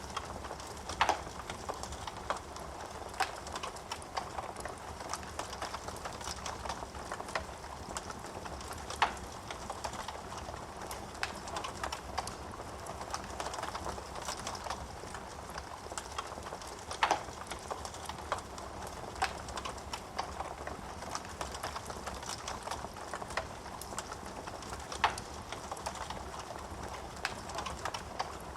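Wood fire crackling in a fireplace: a dense run of small crackles over a steady hiss, with a few louder sharp pops spaced several seconds apart.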